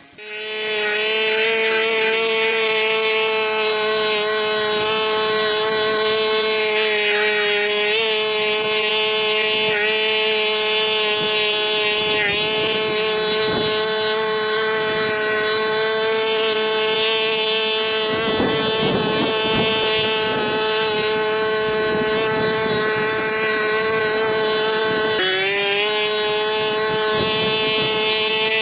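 A motor-driven machine running steadily with a high, even whine, its pitch sagging briefly a few times, most noticeably about three-quarters of the way in, as if it takes on load.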